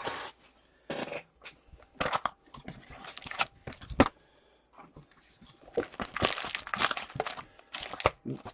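Foil wrappers of 2017-18 Series 1 hockey card packs crinkling and tearing as the packs are opened, in irregular bursts, with a sharp click about four seconds in.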